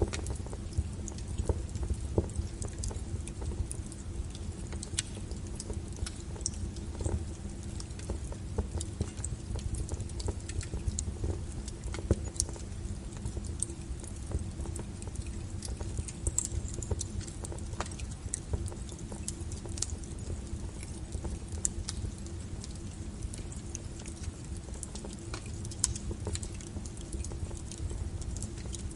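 Wood fire burning with a steady low rumble and frequent sharp crackles and pops from the burning firewood.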